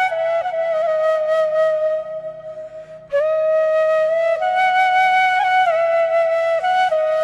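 Background music: a flute playing a slow melody of long held notes with small ornaments, over a soft low drone. The flute drops out for about a second, two seconds in, then comes back.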